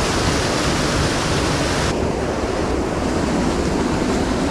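Creek water rushing steadily, a loud even hiss; its higher part drops away about two seconds in.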